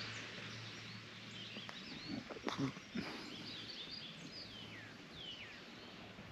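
Birds chirping, a run of short calls that slide downward, over a steady low hum and faint background hiss, with a few soft thumps about two and a half seconds in.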